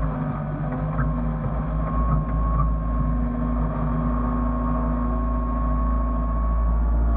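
Hyundai excavator's diesel engine running steadily, with a thin high whine held over the engine note.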